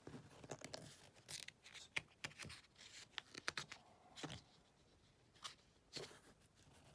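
Faint paper rustles and soft clicks of a book's pages being handled and turned, in short irregular bursts.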